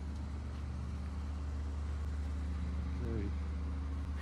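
Diesel-powered commuter train standing at the platform, idling with a steady low hum. A brief voice comes about three seconds in.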